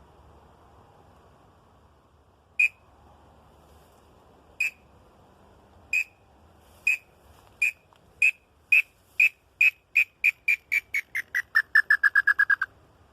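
A wooden tinamou call whistle (pio) blown to imitate a lambu: short whistled notes, at first about two seconds apart, then coming faster and faster and falling in pitch into a rapid run that stops shortly before the end.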